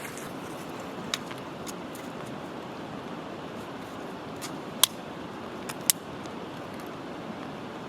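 Steady hiss of rain, with a few sharp clicks; the loudest two come about five and six seconds in.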